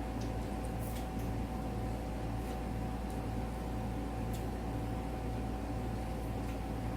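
Steady machine hum in a small room, like a fan or air conditioner running: two constant tones over a low throb that pulses about twice a second. A few faint clicks sound now and then.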